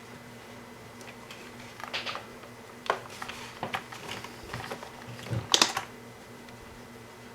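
Scattered light clicks, taps and rattles of hands handling the robot's small plastic and wired parts, with a sharp double click about five and a half seconds in.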